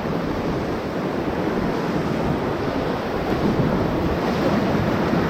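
Whitewater rapids rushing steadily and loudly around a paddle raft, with wind noise on the microphone.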